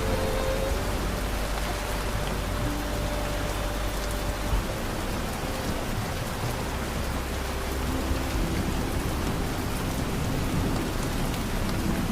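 Steady rain falling, an even hiss with no pauses, over a few soft held notes of ambient music that shift slowly.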